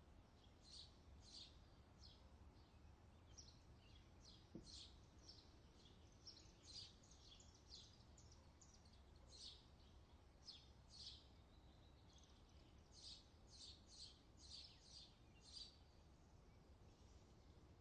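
Faint outdoor ambience: small birds chirping in quick, short, high calls that come in irregular clusters, over a low steady rumble.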